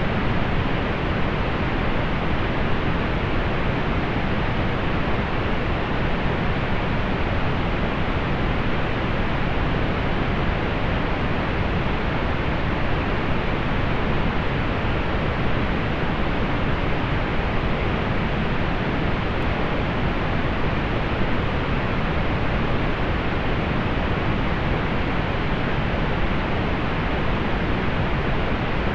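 Steady synthetic pink noise: an even, unchanging hiss weighted toward the low end, softening in the highs.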